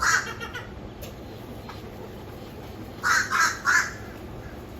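A bird calling: one call at the start, then a quick run of three calls about three seconds in.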